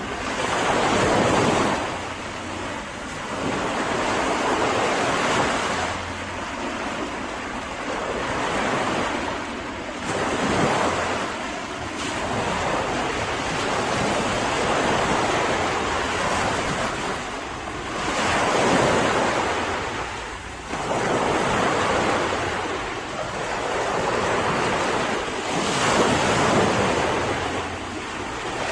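Mediterranean sea waves breaking and washing onto the shore, the surf swelling and falling back every few seconds.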